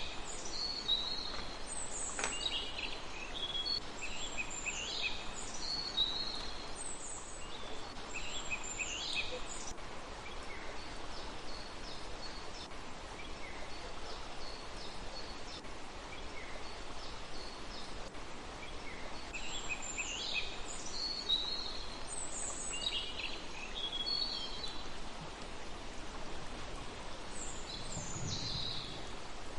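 A small songbird singing repeated short phrases of high, descending notes, in bursts with a quieter stretch in the middle, over a steady background hiss.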